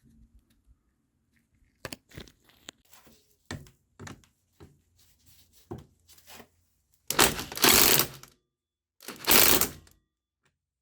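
Scooter variator parts being handled while the assembly is cleaned: a run of small clicks and knocks, then two loud hissing bursts of about a second each.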